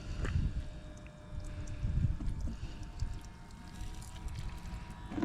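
Gusty wind rumbling on the microphone over faint pouring of marine antifreeze being pumped through a transfer pump.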